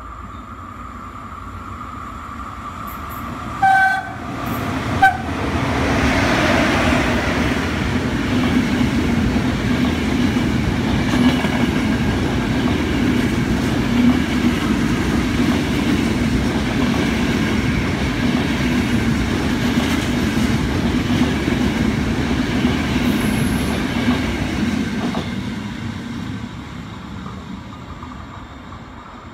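E656 electric locomotive sounding two short horn blasts about a second apart as it approaches. A long, heavy express train of passenger coaches then passes at speed, loud for some twenty seconds before fading away.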